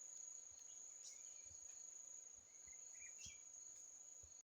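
Faint, steady high-pitched insect trill, cricket-like, running on without a break, with a few faint short chirps over it.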